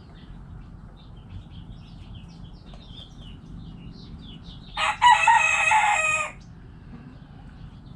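A rooster crows once, about five seconds in: a short first note, then a loud, drawn-out cock-a-doodle-doo lasting about a second and a half. Small wild birds chirp throughout.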